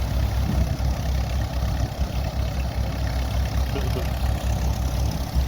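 Vintage crawler tractor engines idling steadily, with wind rumbling on the microphone.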